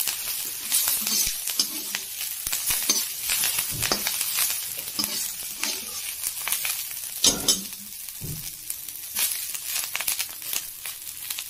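Green chillies and curry leaves, with mustard and cumin seeds, sizzling and crackling as they fry in hot oil. They are stirred with a perforated steel skimmer that scrapes against the pan, with a couple of louder knocks a little after seven and eight seconds in.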